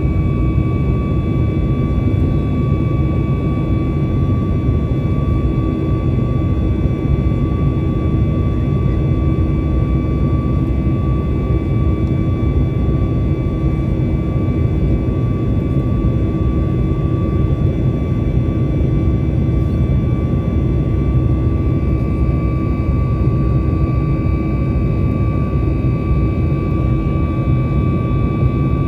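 Steady engine noise of a Boeing 737 MAX 8's CFM LEAP-1B turbofans, heard inside the passenger cabin: a dense low rumble with a steady high fan whine on top, holding level without change.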